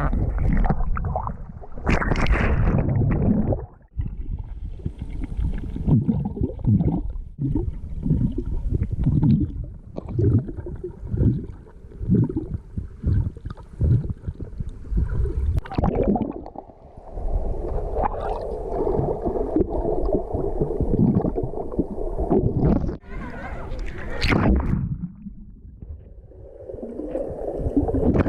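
Muffled underwater sound picked up by a submerged GoPro camera: water gurgling and sloshing around the camera, with a string of uneven surges as the water is stirred.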